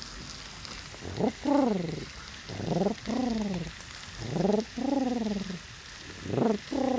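A man imitating feral pigeons: four loud, low cooing calls, each a short rise followed by a longer falling coo.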